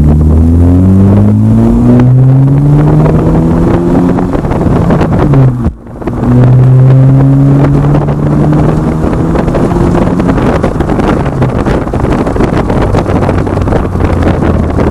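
Exhaust of a 2010 Acura TSX with Megan Racing aftermarket mufflers, accelerating hard. The engine note climbs, drops out sharply for a moment at a gear shift about six seconds in, then climbs again before settling into a rougher, steadier drone.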